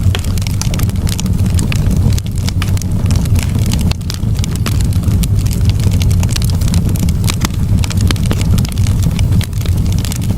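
Campfire burning, with many quick sharp crackles and pops over a steady low rumble.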